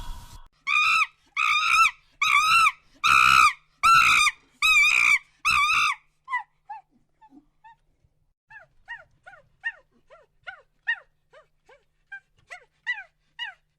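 An animal calling: a series of about eight loud, high, pitched yelping calls, evenly spaced, then a run of short, quieter squeaks that fall in pitch.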